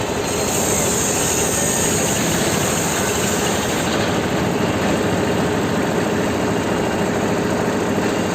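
Powertrac 430 tractor's diesel engine running steadily, driving a fan off its PTO pulley.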